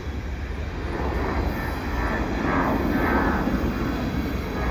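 Freight cars rolling past at track side: a steady rumble of wheels on rail that swells slightly about a second in.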